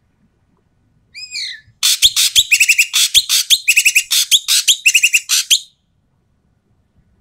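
Ekek keling bird calling noisily: a few short falling notes about a second in, then a fast run of loud, harsh chattering calls broken by quick rattling trills, lasting about four seconds before stopping.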